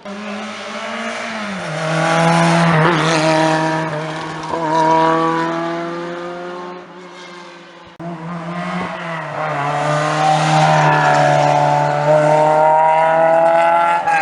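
Historic rally car engines run hard past the roadside, each dropping revs into a corner and then climbing as the car accelerates away, with tyre noise. A sudden cut about 8 seconds in starts a second car doing the same.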